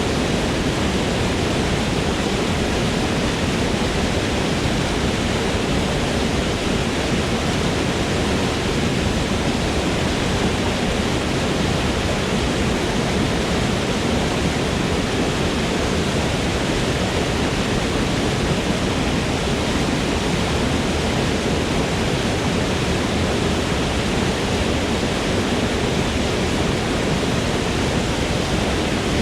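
Waterfall in a forest: water falling and splashing in a steady, unbroken rush.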